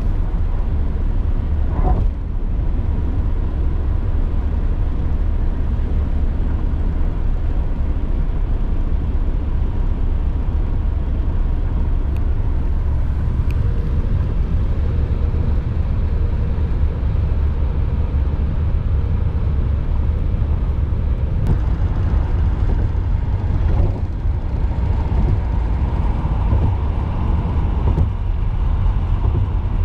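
Steady low rumble of a moving vehicle heard from inside it, with a few faint clicks and knocks.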